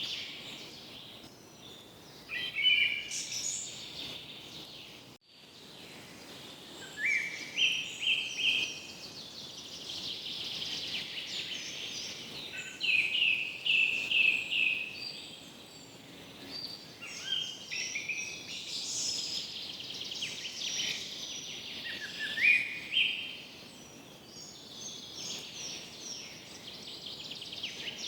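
Birds singing and calling in repeated phrases of high chirps, many stepping up or down in pitch, over a steady faint hiss. The sound cuts out for an instant about five seconds in.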